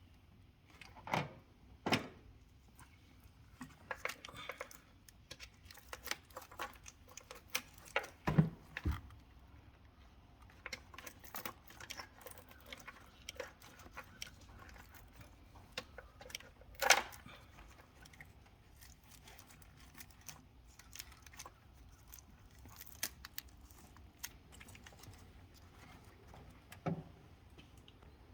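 Scattered light clicks and taps with a few louder knocks, irregular and without any rhythm: the handling noise of tools and small parts.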